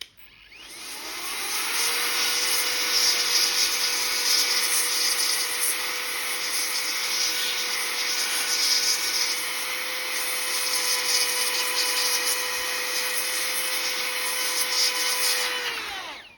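Compressed-air duster blowing over a laptop keyboard to dry out isopropyl alcohol after cleaning a sticking key: a steady loud whoosh with a humming tone that rises in pitch as it starts, runs evenly, and drops away as it cuts off near the end.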